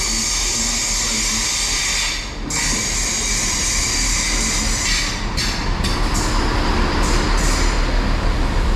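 Class 166 diesel multiple unit arriving at the platform: a steady rush of train noise, with a low engine rumble building toward the end.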